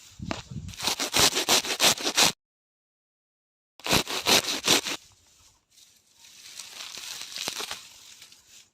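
Bursts of rapid scraping and rustling strokes from hand work on small parts. They break off into about a second and a half of dead silence, come back briefly loud, then settle into softer rustling.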